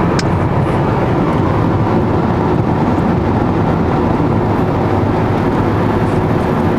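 Steady running noise of a car driving, engine hum and tyre noise without change.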